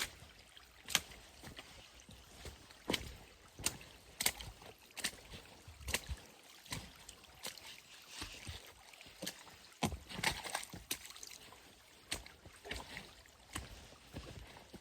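Footsteps on a forest trail: a steady run of crunching steps at walking pace, about one or two a second.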